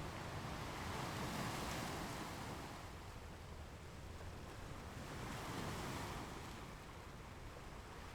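Ocean surf washing onto a shore: a steady rush of breaking waves that swells twice, about a second in and again around five seconds in.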